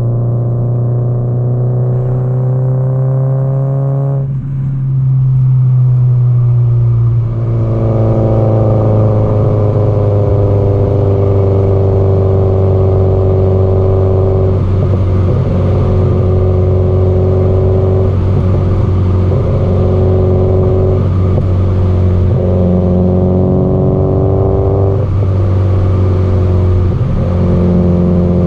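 Exhaust note of a Subaru Impreza WRX STI (GDB-E) and its turbocharged flat-four under way. The engine note rises for about four seconds, breaks off briefly, then pulls on steadily with a few short dips as the throttle eases.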